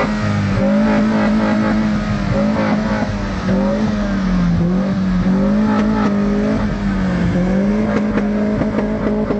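A vehicle engine held at raised revs, its pitch rising and falling a little every second or two as the throttle is worked.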